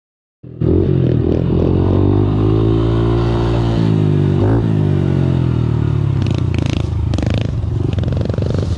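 Small four-stroke pit bike engine running, cutting in abruptly about half a second in, its pitch easing slowly with a quick throttle blip about four and a half seconds in. Clattering knocks join it over the last few seconds.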